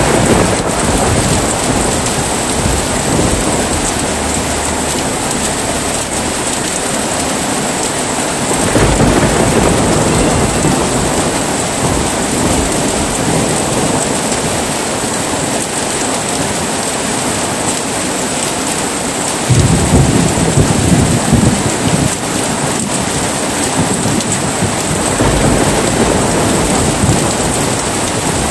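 Heavy rain falling steadily, with thunder rumbling three times: about a third of the way in, a sharper and louder rumble just past two-thirds, and a softer one near the end.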